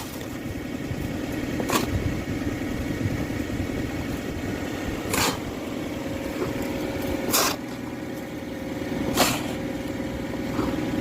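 An engine running steadily, with four brief hissing or scraping sounds spaced through it.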